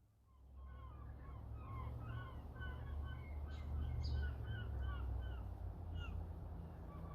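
Several small birds chirping, many short calls in quick succession starting about a second in and thinning toward the end, over a steady low rumble.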